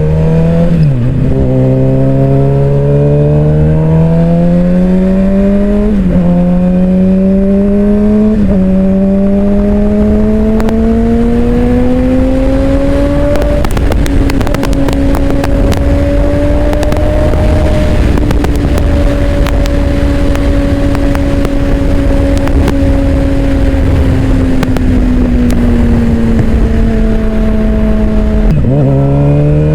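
Suzuki GSX-R600's inline-four engine pulling away and accelerating through the gears, its pitch climbing and dropping suddenly at each upshift, four shifts in the first half. It then holds a steady speed, eases off slowly, and shifts and pulls again near the end, over a haze of wind rush.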